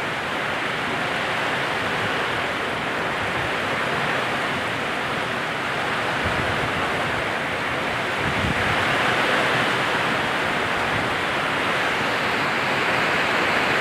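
Heavy rain pouring down, a steady rush of noise that grows slightly louder about eight seconds in.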